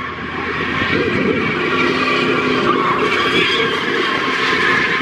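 A car's tires squealing continuously as it swings around doing donuts, with its engine running hard underneath.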